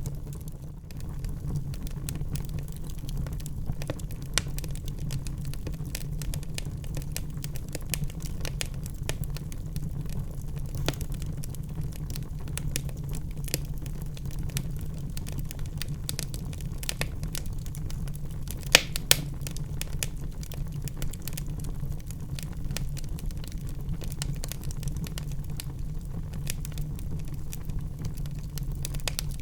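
Wood fire burning in a fireplace: a steady low rumble under a dense run of small crackles, with two louder pops about 19 seconds in.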